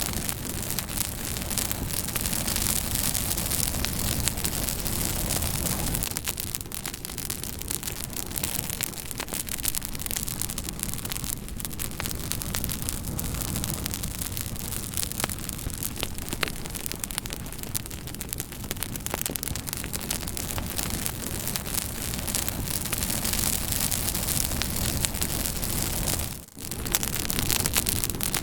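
Campfire burning, with dense crackling and sharp pops over a steady hiss and low rumble of the flames. The sound drops out briefly near the end.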